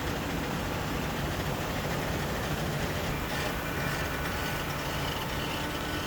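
Heavy engine and hydraulic machinery of a truck tipper running steadily while it holds a wood-chip trailer tipped up. A faint steady whine joins the low rumble about three seconds in.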